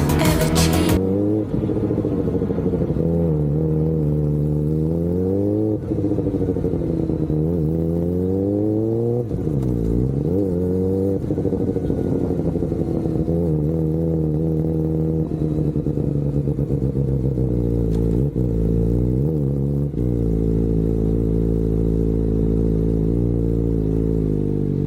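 Kawasaki ZX-4RR's inline-four engine, breathing through a full aftermarket exhaust system, idling and being revved up and down several times with throttle blips, each rise falling back to idle.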